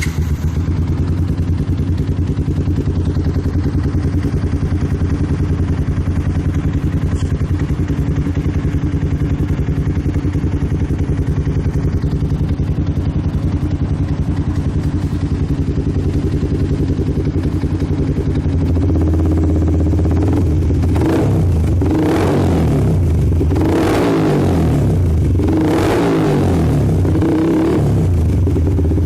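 Yamaha MX King 150's single-cylinder four-stroke engine running through an aftermarket exhaust. It idles steadily for about 19 seconds, then is revved in several quick blips that rise and fall.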